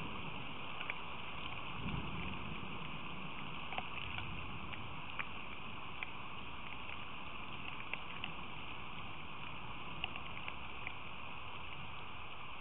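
Steady hiss of rain falling, with scattered single drops ticking sharply at irregular moments.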